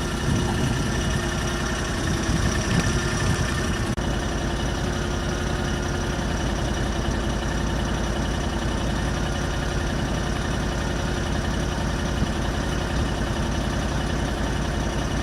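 Mariner 3.3 horsepower two-stroke outboard motor running steadily at an even speed.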